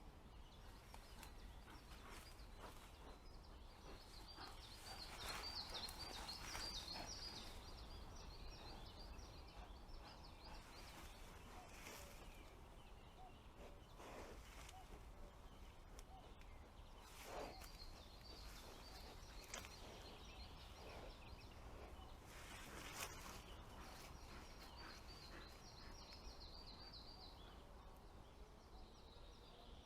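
Quiet forest ambience, near silence, with a small songbird's faint high trill heard three times and a few light clicks.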